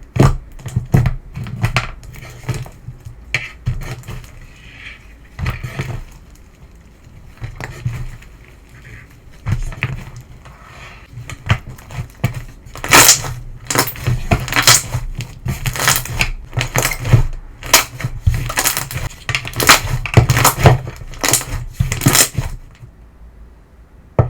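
Semi-crunch slime being squeezed and pressed, giving crisp crackling and crunching clicks in quick clusters. The crunching grows louder and denser in the second half, then dies away near the end.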